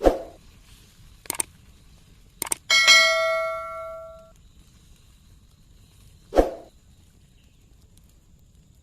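Metal cooking utensils clanking: a few sharp knocks, one strike about three seconds in that rings like a bell for over a second, and a duller knock near the end.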